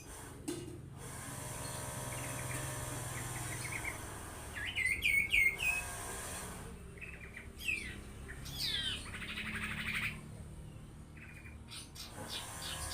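Caged common iora (cipow) singing in bursts: a quick run of repeated chip notes, then loud clear whistled notes that go up and down, then falling whistles and a buzzy rattle.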